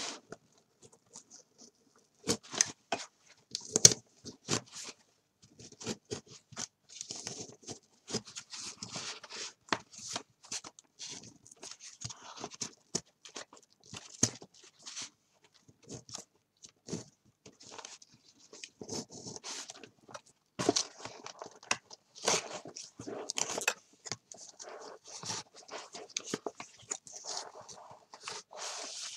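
Cutting into an old folded book with a blade, with paper handling: irregular crunching cuts, clicks and rustles with brief pauses. The sharpest clicks come about two and a half and four seconds in.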